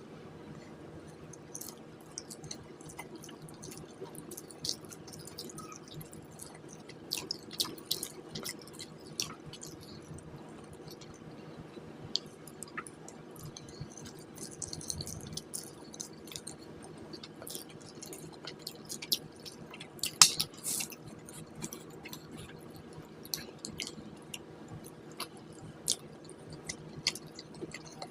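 Close-miked eating sounds: chewing with many wet smacks and clicks of the mouth, a few louder ones about two-thirds of the way through, over a steady low hum.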